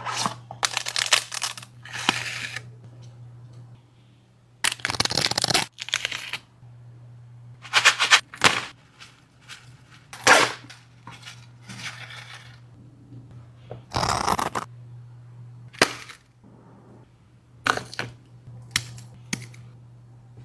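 A dog eating: irregular sharp crunches and chomps, with a few longer rasping bursts of chewing, over a steady low hum.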